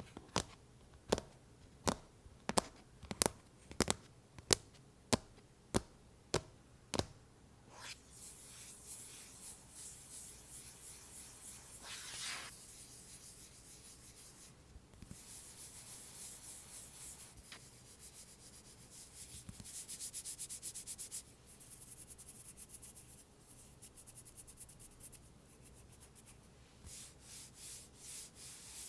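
Tapping on an iPad cover, sharp evenly spaced taps about one and a half a second for the first seven seconds, then scratching and rubbing across the cover's surface for the rest.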